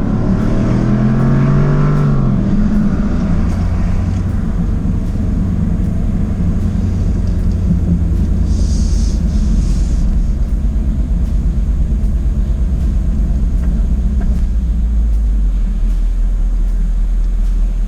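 2024 Jaguar F-Type's 5.0-litre supercharged V8 rising in pitch as the car accelerates for about two seconds, then settling into a steady low drone while cruising. A brief hiss comes about nine seconds in.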